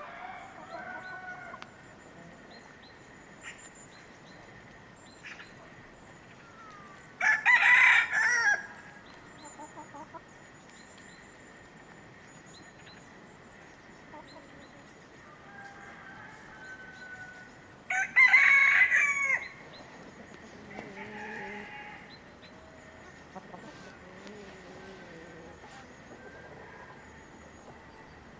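A rooster crowing twice, about ten seconds apart, each crow about a second and a half long, over softer clucking from hens.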